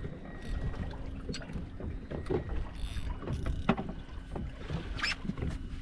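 Small boat rocking on a choppy sea: water slapping the hull and wind buffeting the microphone, with a few light knocks and a faint steady hum underneath.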